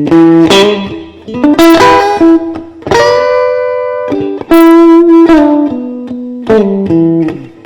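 Electric guitar playing a slow blues lead: single picked notes, some held for a second or more, without singing.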